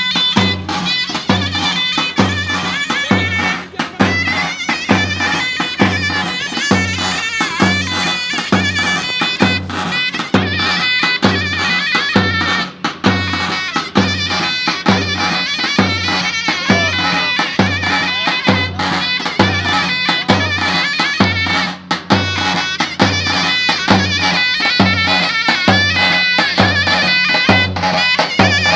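Turkish folk music: a reed pipe plays a winding melody over a drum beating steadily about once a second.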